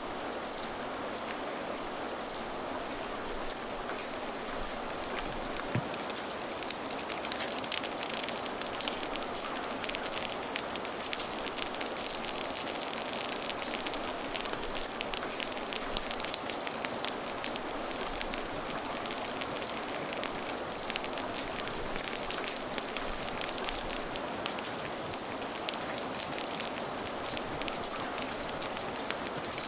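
Steady rain falling, with a wood fire crackling in fine, irregular ticks over it. The crackling grows denser about a quarter of the way in.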